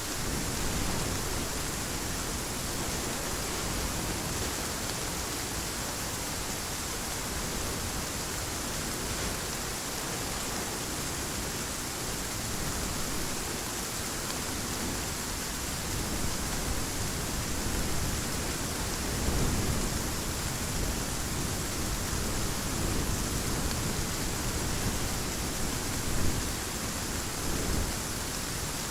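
Heavy rain falling steadily as an even hiss, with a few short, louder low swells in the second half.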